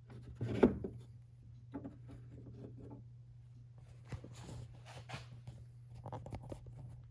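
Hands handling a wooden wall clock case while setting its pendulum swinging: a sharp knock about half a second in, then scattered light clicks and rubbing, over a steady low hum.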